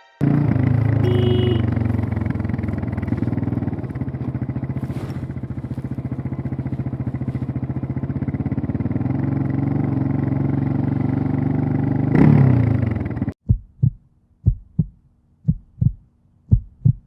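Yamaha XT600E's single-cylinder four-stroke engine running under way, rising briefly about twelve seconds in, then cutting off abruptly. It is followed by slow low thuds in pairs, like a heartbeat.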